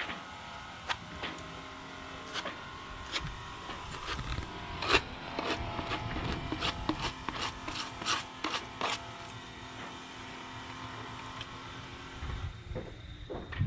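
Plastic spreader scraping adhesive fairing filler onto a ground-back fibreglass keel joint: a run of short scrapes, coming quickest around the middle.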